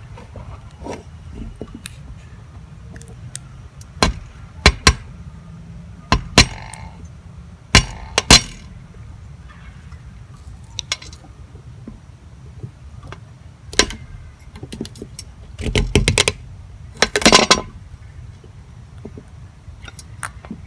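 Hard dried gourds and a knife knocking and clinking as they are handled and cut. The sharp knocks come irregularly, in small groups, with a busier cluster near the end.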